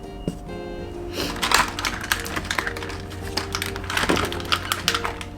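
Quick clicks, taps and rustles of small plastic toy pieces and their packaging being handled, starting about a second in, over steady background music.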